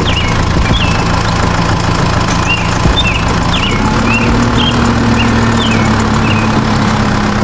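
A motor running steadily with a low hum and a hiss, its pitch stepping up slightly about four seconds in. Short bird chirps are heard over it.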